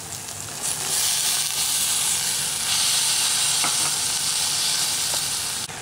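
Halved turkey berries going into hot oil and onion-tomato masala, sizzling loudly. The sizzle swells about a second in, grows louder near the middle, and cuts off suddenly near the end.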